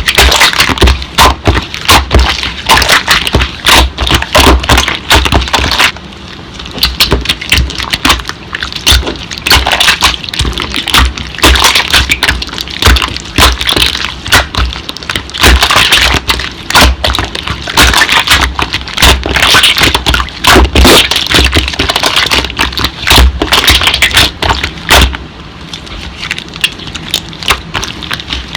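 Slime being squeezed and poked by hand, giving dense, rapid crackling and popping clicks.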